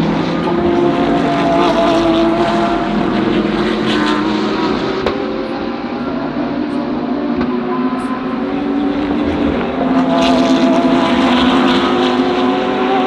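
GT3 race car engines at full throttle, their pitch climbing slowly as the cars accelerate. The sound swells twice, near the start and again near the end.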